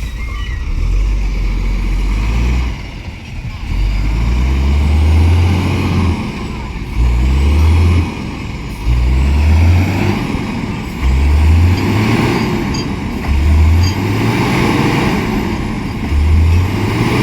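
Tractor diesel engine revved up hard again and again, in surges a second or two long with drops between, as the tractor tries to pull free where it is stuck on rain-slick ground.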